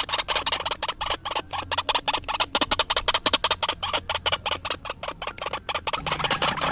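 White-breasted waterhen (ruak-ruak) calling in a rapid, continuous series of harsh croaking notes, several a second, as played for a lure recording.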